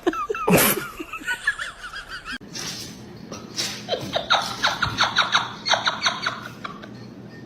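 High, wavering squeals, then after a cut a person laughing in a rapid series of short bursts, about four or five a second.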